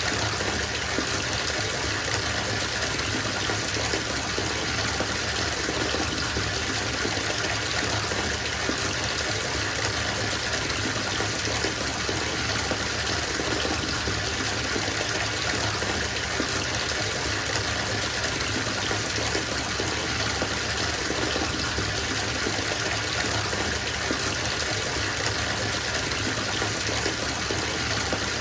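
Bathtub filling: tap water gushing steadily into the tub, an even splashing rush.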